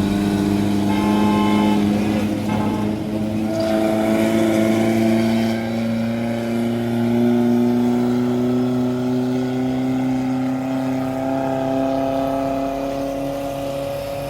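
Heavy truck engine running hard under load on a steep climb, its pitch rising slowly and steadily as it gains revs.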